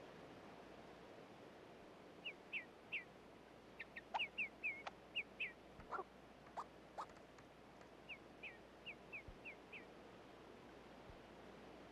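Short, high, downward-sliding chirps from a small wild animal, bird or squirrel, coming in three quick runs of several notes each, with a few sharper single notes between them, over faint forest ambience.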